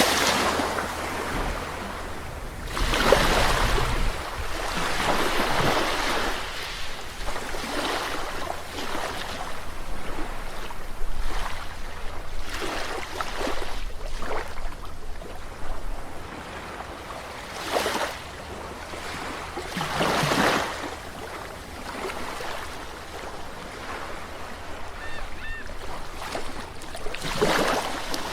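Calm sea waves breaking and washing ashore, a swell of surf every few seconds, with lower wash between the surges.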